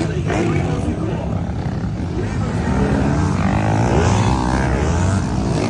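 Motocross bike engines racing on the track, one bike passing about halfway through with its engine note rising and falling.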